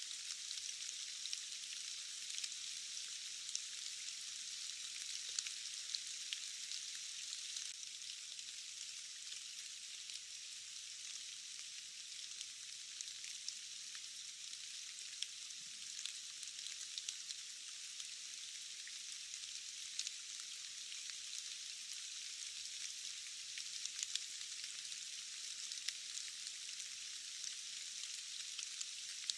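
Steady rain falling on foliage, a continuous high hiss with many small scattered drop ticks.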